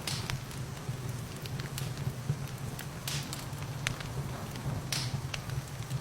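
Wood fire in a fireplace crackling, with irregular sharp pops (louder ones near the start, about three seconds in and about five seconds in), over a steady rain hiss and low rumble.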